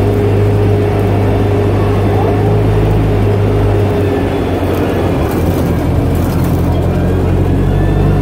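Parking-lot courtesy tram running steadily, heard from aboard: a low engine hum with road and running noise.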